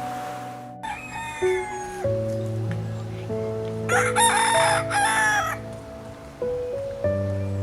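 A rooster crowing, loudest about four seconds in, with shorter calls about a second in, over background music of held notes.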